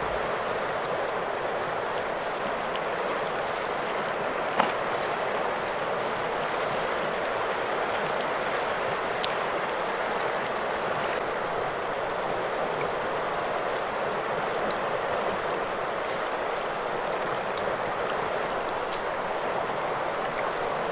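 Steady rushing of flowing river water, with one sharp click about four and a half seconds in.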